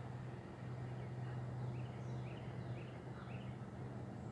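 A bird calling a quick run of about five short rising chirps in the middle of the stretch, over a steady low hum.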